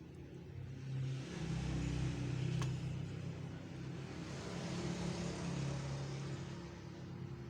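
A motor running with a steady low hum that swells and fades twice, and a single sharp click partway through.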